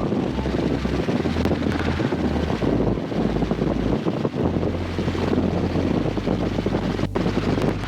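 Helicopter in flight: steady engine and rotor noise, with wind rumbling unevenly on the microphone.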